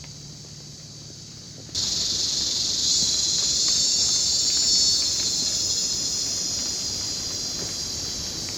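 Jungle insects buzzing in a loud, high, steady drone. It starts abruptly about two seconds in, after a fainter stretch, and slowly fades toward the end.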